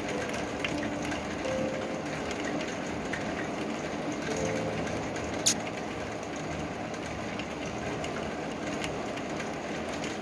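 Heavy rain pouring steadily, a dense even hiss, with one sharp click about five and a half seconds in.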